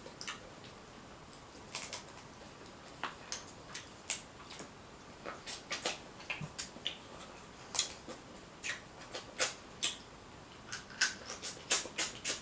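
Irregular sharp cracks and clicks of seafood-boil shells, such as snow crab legs, being cracked and picked apart by hand while eating. The clicks come closer together in the second half.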